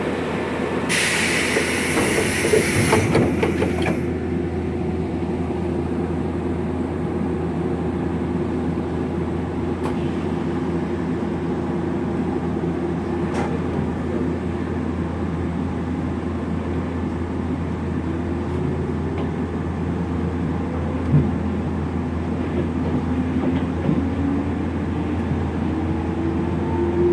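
Running sound heard inside a Nankai 3000 series electric train car with electric camshaft resistance control: a steady rumble of motors and wheels on the rails. A burst of hissing air comes about a second in and lasts a couple of seconds. Later the motor tone rises in pitch twice and there is a single thump.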